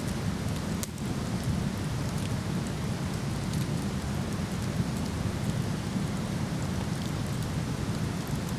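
Steady rush of a waterfall, with a wood fire crackling over it in small, scattered sharp ticks.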